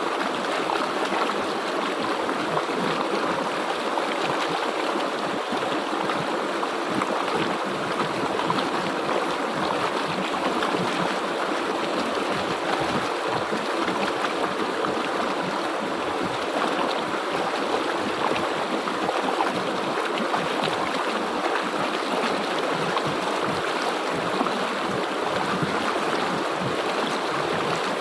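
River water flowing steadily in an even, continuous rush.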